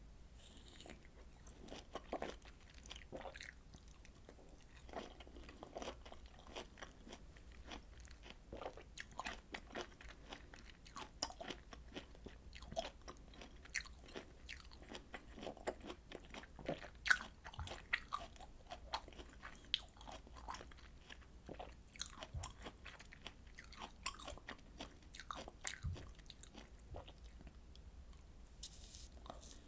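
Close-miked chewing of juicy citrus fruit: an irregular run of small wet clicks and squishes, with now and then a louder bite.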